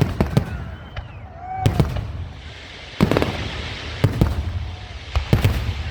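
Aerial fireworks bursting: a string of sharp, echoing bangs spread irregularly across a few seconds, a couple of them in quick pairs.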